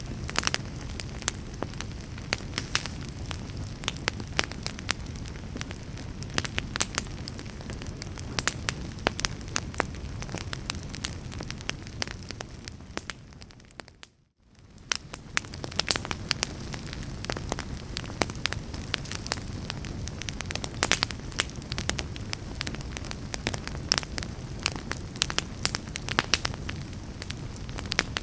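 Wood log fire burning in a fireplace: a steady low rumble of flames with frequent sharp crackles and pops. About halfway through the sound fades down to near silence for a moment and then fades back up.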